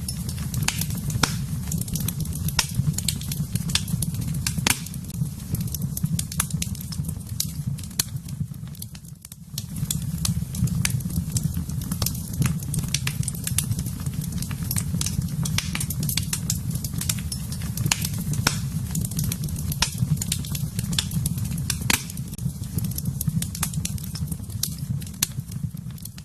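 Wood fire burning in a fireplace: a steady low rumble of flames under frequent sharp crackles and pops. The sound dips briefly about nine seconds in.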